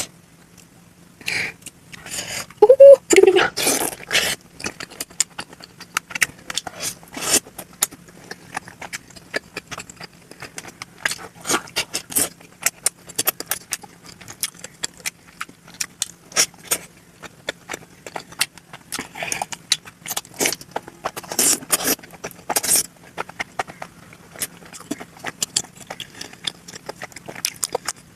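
Close-miked chewing and mouth sounds of someone eating momo dumplings, played at double speed: a dense, irregular run of quick wet clicks and smacks, with a short voiced sound about three seconds in.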